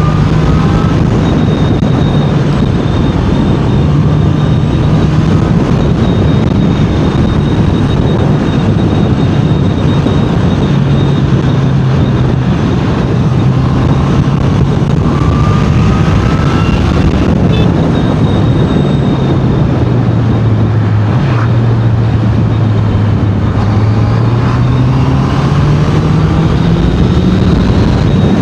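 Honda CBR650R inline-four motorcycle engine running under way with heavy wind rush over the microphone. Its tone drifts slowly lower from about two-thirds through, then climbs steadily again near the end as the revs build.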